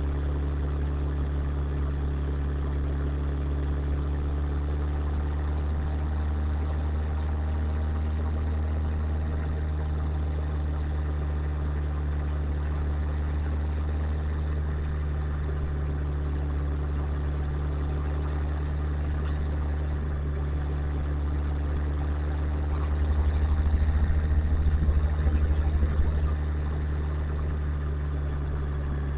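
Motorcycle engine running at a steady speed, heard from the bike itself, with a louder low rumble for about three seconds near the end.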